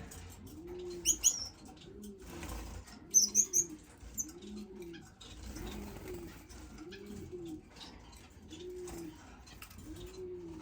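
A dove cooing over and over, one low arched coo about every second, while small finches give short high chirps, a few about a second in and a quick cluster around three seconds in.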